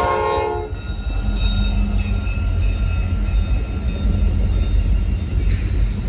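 Train horn sounding a chord and cutting off about half a second in, followed by the low, steady rumble of the train running past with faint ringing tones from the wheels and rails.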